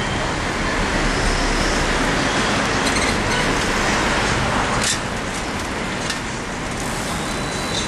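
Steady traffic and road noise heard while riding through city streets, with a sharp click a little past halfway.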